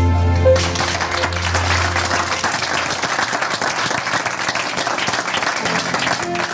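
The song's final piano chord rings out, and about half a second in a theatre audience breaks into steady applause.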